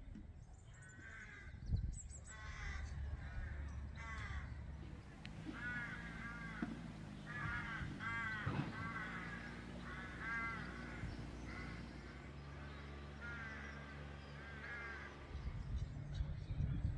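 Crows cawing in repeated runs of harsh calls, several in quick succession per run, the calls fading out towards the end, over a low steady rumble.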